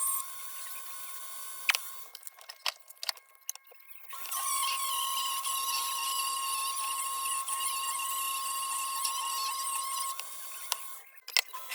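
Handheld rotary tool spinning an 800-grit nylon abrasive bit against metal while polishing: a steady high-pitched whine. The whine drops out for about two seconds with a few light clicks, resumes, and briefly cuts out again near the end.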